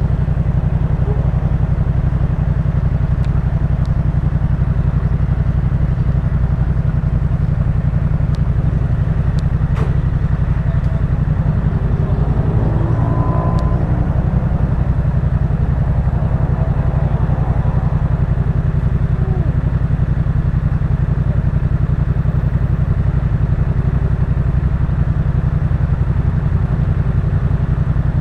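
Yamaha MT-07's 689 cc parallel-twin engine running through a Jeskap K4 full aftermarket exhaust. It holds a steady, unchanging engine speed.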